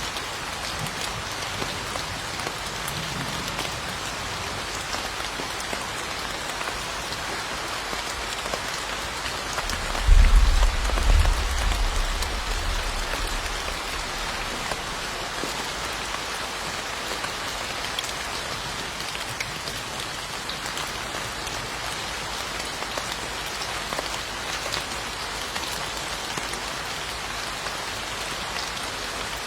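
Steady heavy rain falling, an even hiss of drops on surfaces. About ten seconds in a deep rumble of thunder rises and fades over a few seconds.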